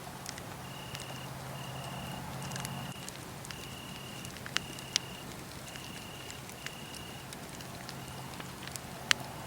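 Wood fire crackling with scattered sharp pops, the loudest near the end, while crickets chirp in short, evenly pitched high trills of about half a second each.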